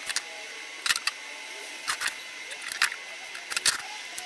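Chisel chipping waste out of plywood by hand: a series of sharp, irregular clicks and cracks, several times a second at most, over a faint steady hiss.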